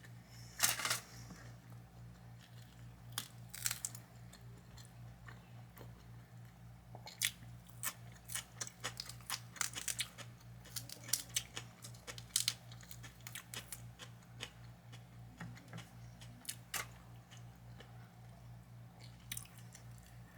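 Close-miked chewing of a crunchy broiled eggplant parmesan sandwich on a roll: a loud bite about a second in, then on-and-off bursts of crunching and mouth clicks, busiest in the middle. A steady low hum runs underneath.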